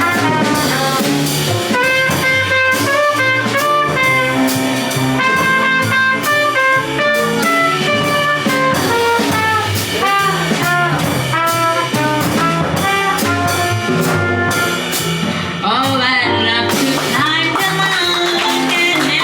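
Live jazz band playing: horns carrying the melody over a drum kit and a stepping low bass line. Near the end the lead changes to a wavering line with strong vibrato.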